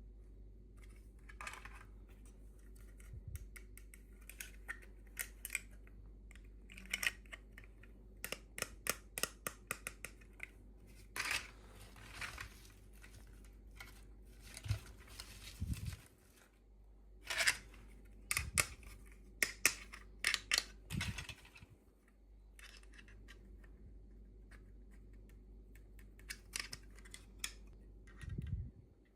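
Hands opening and handling small plastic toy packaging: irregular runs of small clicks, crinkles and scratches, with a few pauses.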